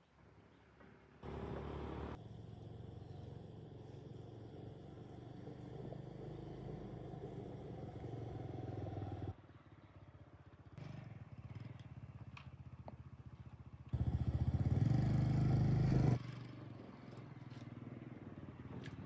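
A small engine running steadily, broken by several abrupt changes in level, loudest for about two seconds near fourteen seconds in.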